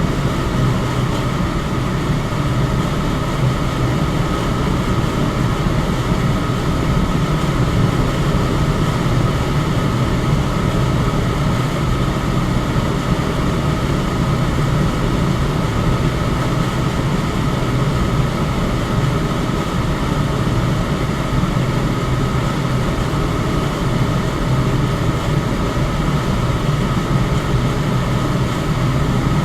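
Electric fan running steadily: an even rushing of air with a low hum and a faint steady whine above it.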